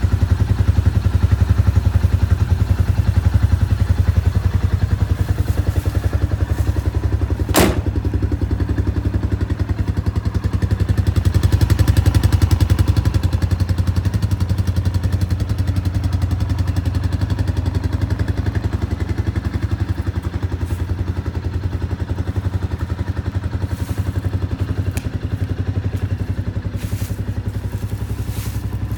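Engine of a JEP 500 4x4 utility vehicle running steadily at a low, even idle, with one sharp click about eight seconds in and a slight rise in level around twelve seconds.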